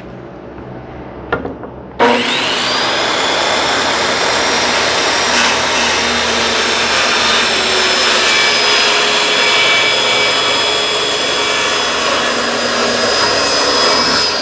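Handheld electric circular saw starts about two seconds in, its motor whine rising quickly to speed, and cuts a board freehand in one long steady run. A couple of light clicks come just before it starts.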